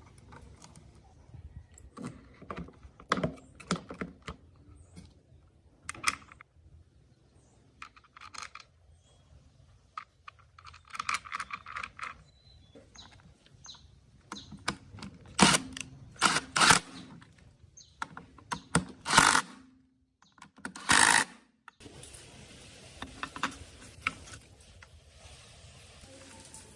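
Irregular clicks, taps and knocks of small hard parts being handled, loudest in a few clusters past the middle.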